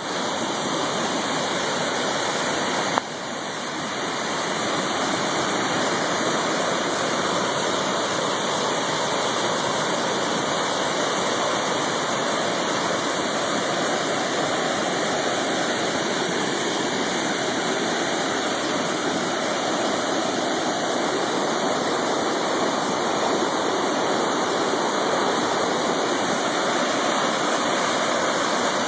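River in flood rushing steadily past, a continuous roar of fast water. A single click about three seconds in.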